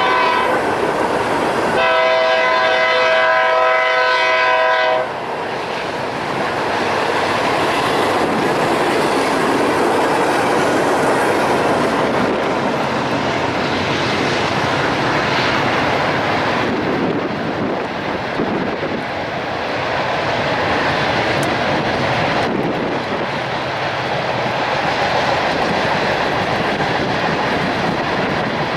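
Diesel freight locomotive's air horn sounding, breaking off about a second in and blowing again until about five seconds in, then the train rolling past with a steady rumble and wheel clatter on the rails.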